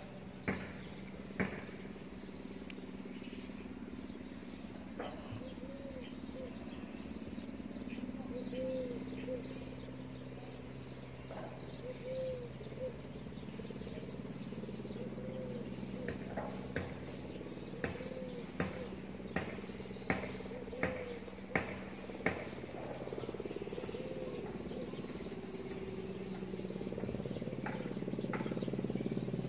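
Outdoor ambience: a bird's short call repeated every couple of seconds, with scattered sharp clicks, more of them in the second half, over a steady low hum.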